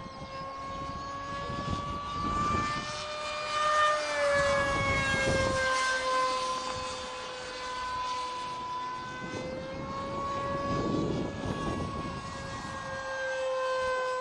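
Electric RC model jet (Multiplex TwinJet) in flight, its single brushless outrunner motor and propeller giving a steady high-pitched whine that rises and falls slightly in pitch a few times as the plane passes, with low rumbling swells underneath.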